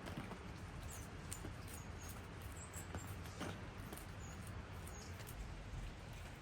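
Rain pattering and dripping, with many small sharp drips and a scatter of short, very high chirps from small birds.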